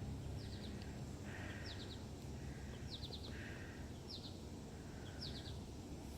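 A songbird singing faintly, repeating a short phrase of three or four quick high chirps about once a second, over a steady low rumble of background noise.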